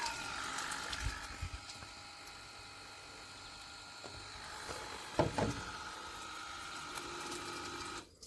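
Small battery-powered pump of a portable camping shower running, a steady whine over the hiss of water spraying; its pitch falls at the start, there are a couple of knocks about five seconds in, and the sound cuts off just before the end.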